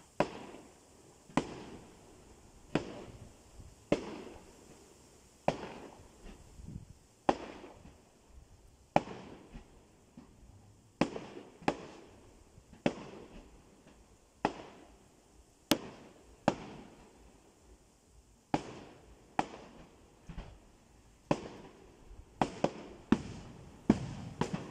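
Aerial fireworks bursting: a steady run of sharp bangs about every second and a half, each trailing off briefly, coming closer together near the end.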